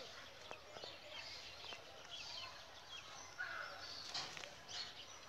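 Birds chirping and calling, many short high chirps and little pitch glides scattered throughout over faint outdoor background noise.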